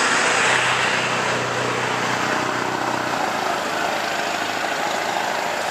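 Road traffic going by: tyre and engine noise from passing vehicles, with one engine's hum fading out about three seconds in.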